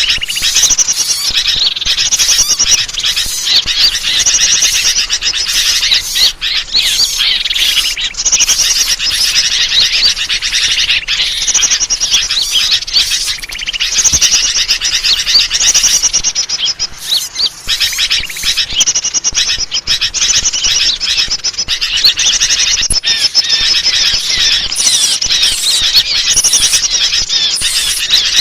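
Dense, unbroken chattering of many small songbirds, chirps and trills overlapping. It is a bird-lure (pikat) call track made to draw birds in.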